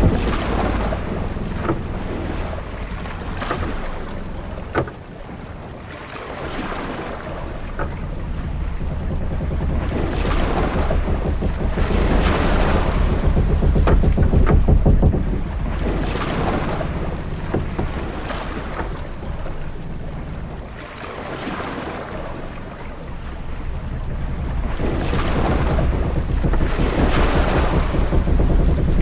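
Ship-at-sea ambience: waves washing in swells every two to three seconds over a steady low rumble of wind. A few sharp knocks sound in the first few seconds.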